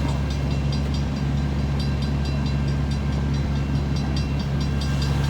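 Large diesel engine idling steadily: an even low hum with a fast, regular light ticking over it.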